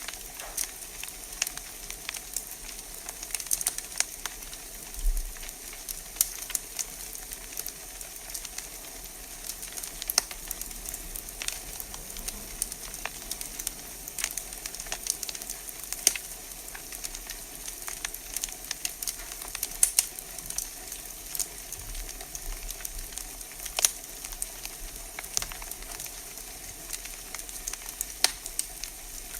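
Wood fire crackling in a fireplace: a steady hiss with frequent irregular pops and snaps, a few louder than the rest.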